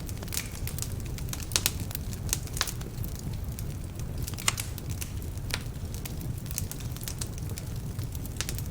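Log fire in a fireplace, crackling with irregular sharp pops over a steady low rumble of the flames. The pops come from logs that are still somewhat damp.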